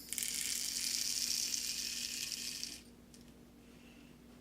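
Shotgun shot pellets poured into a plastic shot cup: a dense, high rattle of many small pellets that lasts nearly three seconds and stops, followed by a few faint clicks.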